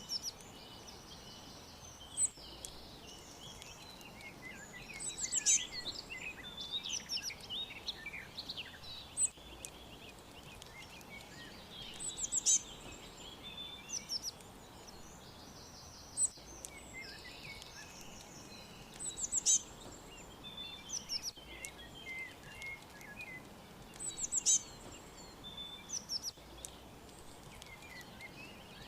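Songbirds chirping and calling: clusters of quick, high chirps and short trills every few seconds, over a faint steady background hiss.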